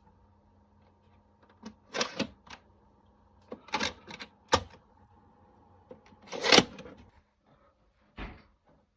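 A series of sharp plastic clicks and short scrapes from handling a CD case and its packaging, with the longest and loudest scrape about six and a half seconds in.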